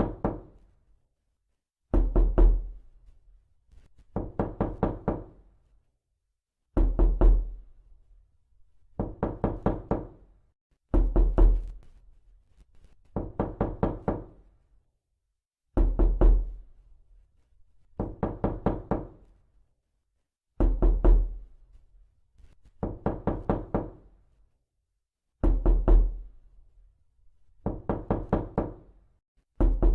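Realistic knocking: groups of several quick knocks, repeating about every two seconds with pauses between, alternating a heavier, booming group with a lighter one.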